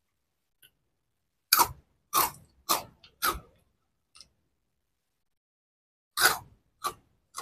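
Close-up crunching of a person biting and chewing crispy potato-flavoured snack sticks: four crunches in quick succession about a second and a half in, then two more near the end.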